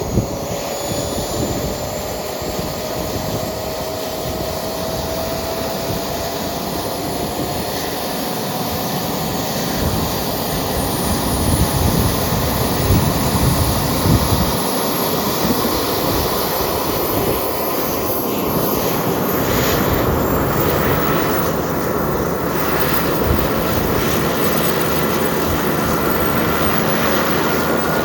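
Model aircraft turbine (jet) engine running: a rushing exhaust with a thin whine that slowly climbs in pitch as the turbine spools up, growing louder about eleven seconds in.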